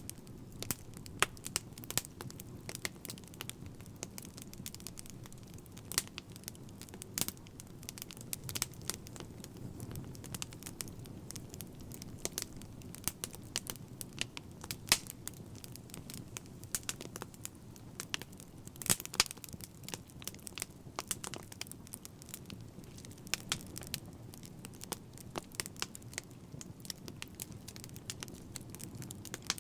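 Fire crackling: irregular sharp pops and snaps, several a second, over a steady low rumble of the flames.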